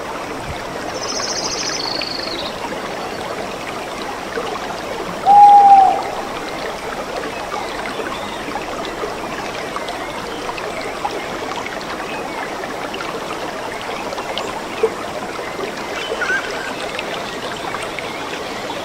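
Stream water running steadily, with a high trill about a second in and a short, loud, slightly falling call about five seconds in, the loudest sound; a few faint calls follow later.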